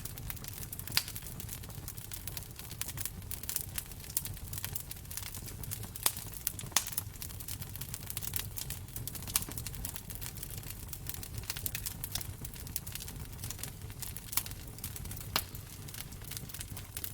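Wood fire in a fireplace crackling steadily with irregular snaps and a few louder pops over a low rumble of the flames.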